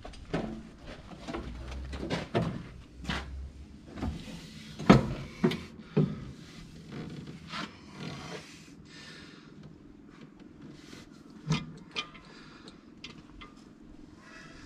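Hand repair work on a tractor's gear-lever assembly: irregular metal knocks and clinks of tools and parts, with short scraping sounds between them. The loudest knock comes about five seconds in.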